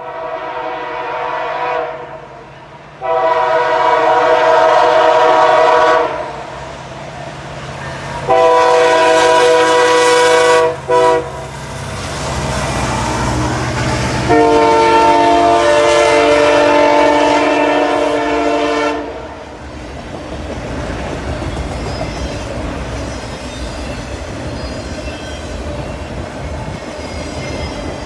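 Diesel freight locomotive's air horn sounding the grade-crossing signal: two long blasts, a short one, then a final long blast, while the locomotive's engine swells past. The freight cars then roll by with a steady clatter.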